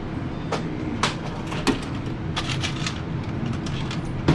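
A steady low background hum with a handful of short, sharp clicks and taps, such as small objects being handled.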